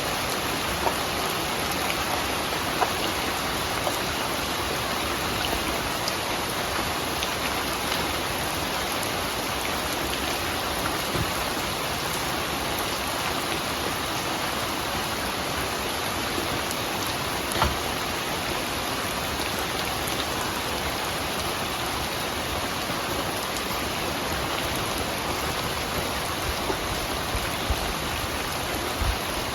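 Steady rain falling, a dense even patter, with a few louder single drops ticking now and then.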